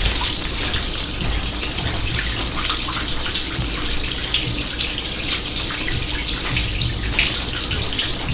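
Water running and splashing steadily from an overflowing kitchen sink, with many small splashes over a constant rush.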